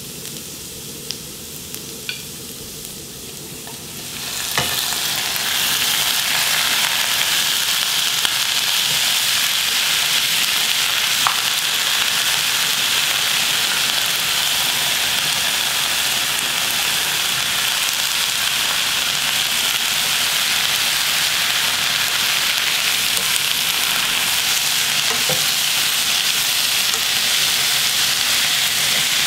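Minced garlic sizzling gently in oil in a wok, with a few light clicks from a spatula; about four seconds in, sweet potato stems go into the hot oil and a loud, steady sizzle takes over.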